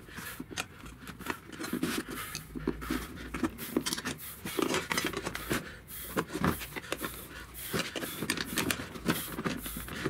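Metal tire irons scraping and clicking against the wheel rim and the rubber tire bead as the bead of a wheelbarrow tire is levered onto the rim: a run of short, irregular clicks and scrapes.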